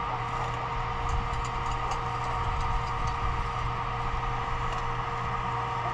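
A steady engine-like drone holding a constant pitch, with a few light clicks over it.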